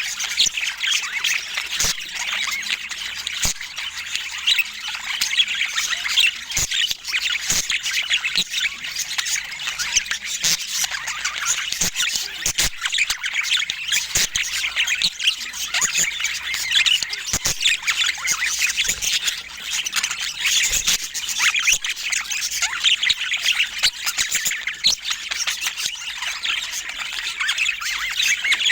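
Budgerigars chirping and warbling in a continuous, busy chatter of quick high chirps, with occasional sharp clicks.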